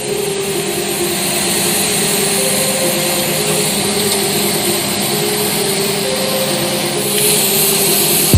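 A steady, loud machine noise, like a motor or power tool running, over faint background music.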